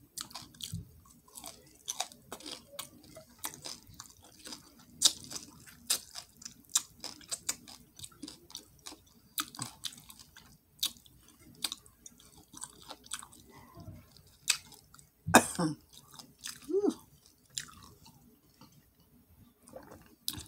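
A person chewing and crunching crispy catfish close to the microphone, with wet mouth clicks and smacks at an irregular pace and a louder smack about fifteen seconds in.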